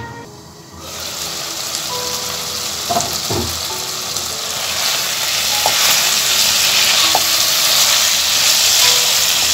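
Pumpkin pieces frying in spice paste in a metal pan, a steady sizzle that starts about a second in and grows louder from about halfway, with a spatula stirring and knocking against the pan. The masala is being fried down with the pumpkin, the bhuna stage of the curry.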